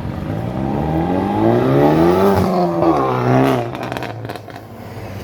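Renault car's engine revving hard as it accelerates away. Its pitch climbs, drops briefly at quick gear changes and climbs again, then it fades as the car pulls off.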